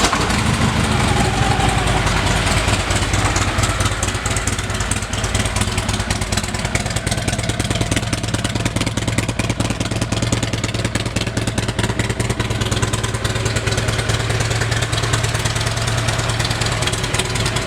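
Harley-Davidson Twin Cam 103 V-twin idling through an aftermarket Rinehart exhaust, with a steady, even pulse; it settles in the first second or two after being started and stops near the end.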